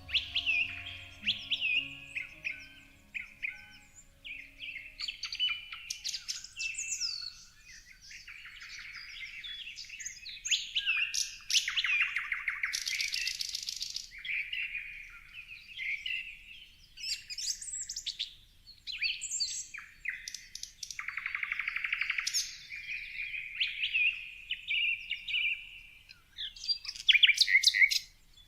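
Several songbirds chirping, whistling and trilling over one another in quick, varied phrases, with a fast buzzy trill about halfway through and a rapid, loud rattling trill near the end. Faint low music tones fade out in the first few seconds.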